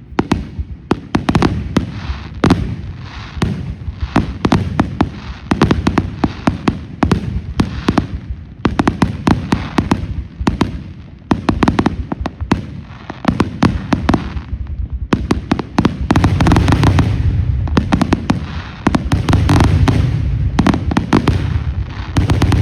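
Fireworks going off in rapid, nearly continuous succession: sharp bangs and crackling that pile up densely, growing thicker and louder about two-thirds of the way through.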